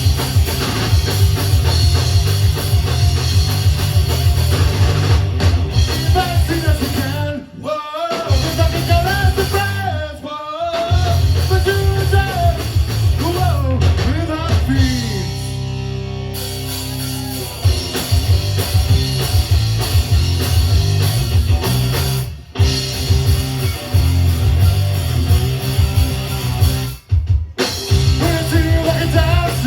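Rock music with distorted guitar, drum kit and a singing voice, breaking off briefly several times.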